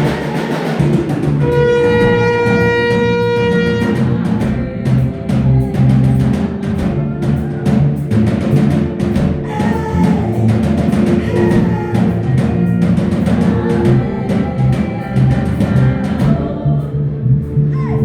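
Live gospel praise-break music driven by fast, continuous drumming, with a long held note near the start.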